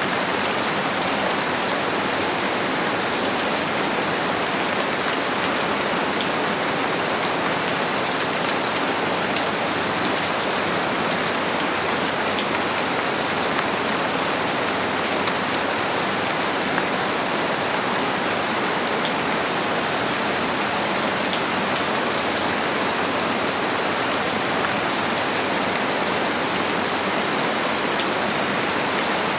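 Steady rain falling, an even hiss scattered with the fine ticks of individual drops.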